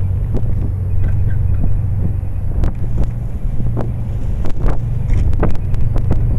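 Steady low outdoor rumble, like distant motor traffic, with irregular sharp clicks and knocks scattered through it.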